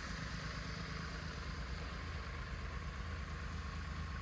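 Triumph Tiger 1200's three-cylinder engine idling steadily.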